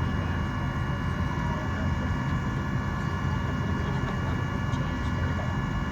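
Steady cabin noise inside a parked Boeing 737-800: a constant low rumble from the air-conditioning packs, with a few thin steady whining tones above it and some faint small ticks.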